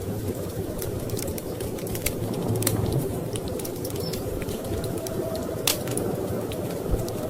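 Wood fire crackling in a fireplace, with irregular sharp pops and snaps, over a steady low rumble of storm wind.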